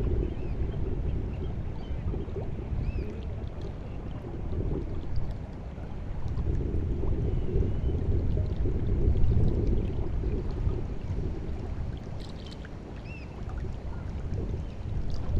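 Sea water washing and lapping at the shore as the tide comes in, swelling and easing every few seconds. A few faint, short, high bird chirps sound over it.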